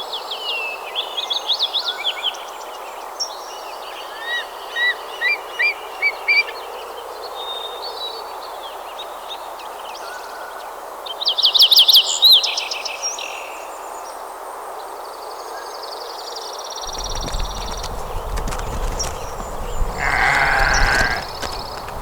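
Several small birds chirping over a steady background rush, with a loud rapid trill about eleven seconds in and a buzzy note after it. Near the end a louder, longer animal call, like a bleat, sounds once.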